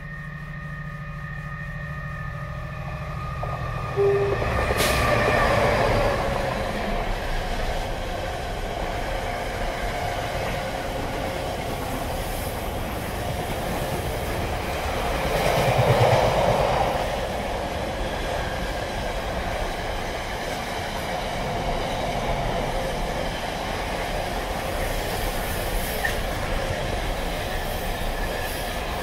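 Diesel-hauled intermodal container freight train approaching, its locomotive's engine tone growing louder, then passing close by about four seconds in. The container wagons then rumble and clatter steadily past over the rails, with a louder swell of wheel noise around the middle.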